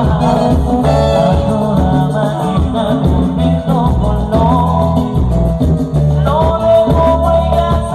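Latin American band music with singing over a strong bass line and shaker percussion.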